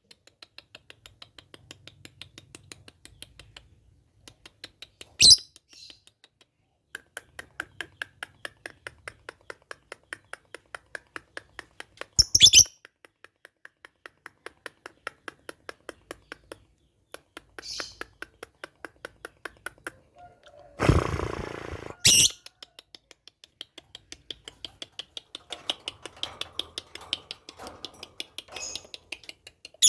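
Pet lovebird giving short, sharp, high chirps every few seconds over a rapid, even ticking of about six ticks a second. A louder, noisy burst of about a second comes about two-thirds of the way through.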